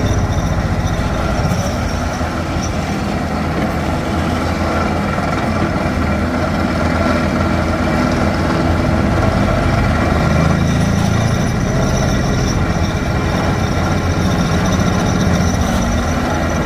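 Heavy hydraulic rock-breaking machinery working hard rock, running steadily with a fast, even rattle over the diesel engine.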